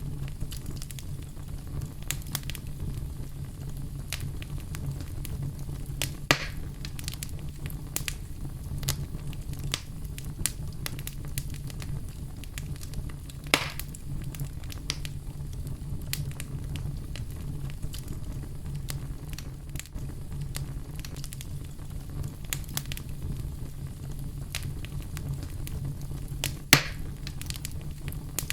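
Wood fire burning in a fireplace: a steady low rumble of flames with scattered crackles, and three louder pops, about six seconds in, halfway through and near the end.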